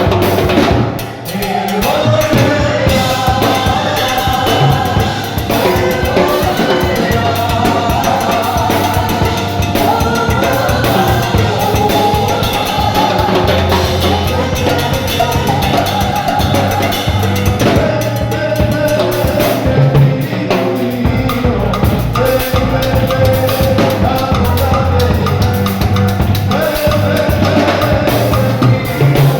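Band music with a full drum kit (bass drum and snare) under a steady bass line, typical of a church worship band. It dips briefly about a second in, then carries on.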